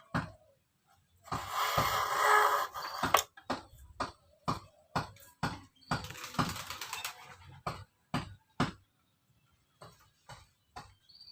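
Thin bird-cage spokes being worked by hand: a run of sharp knocks, roughly two a second, with two longer stretches of scraping.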